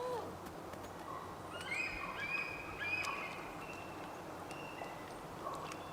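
Quiet natural ambience with a few short, high whistled bird calls in the middle.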